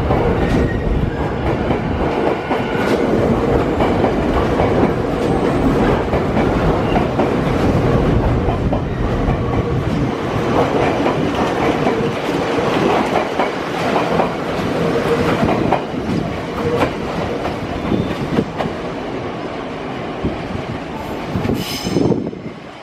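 Nankai electric train running through the station, its wheels clattering over rail joints with a steady motor hum. The clatter is densest in the middle, and the sound drops off sharply at the very end.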